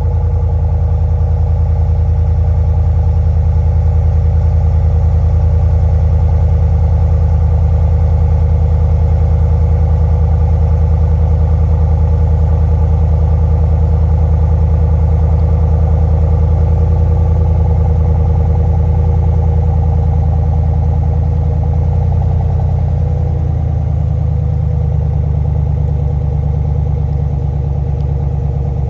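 Chevy Silverado 6.2-litre V8 running steadily through a muffler-deleted exhaust, its flapper valve still in place. It gives a deep, even drone that shifts slightly a little over two-thirds of the way through.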